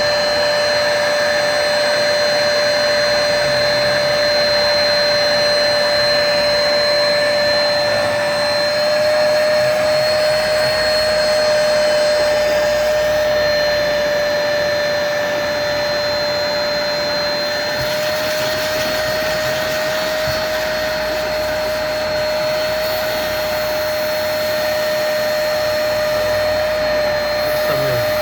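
Hoover Spotless portable carpet spot cleaner running, its suction motor giving a steady whine over a rushing hiss as it suctions the carpet.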